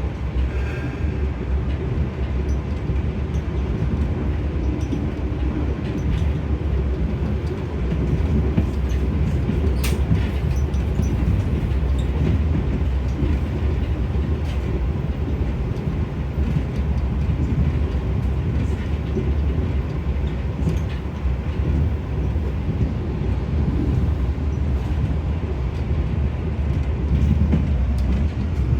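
Steady low rumble of the KA Anggrek passenger train, with a sharp click about ten seconds in.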